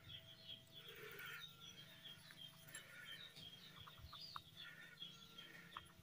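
Faint birds chirping: many short, high chirps several times a second, with a few lower calls among them.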